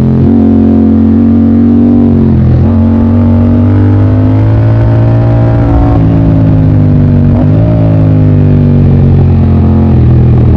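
Motorcycle engine running under way at a steady pitch, which dips briefly twice and climbs back.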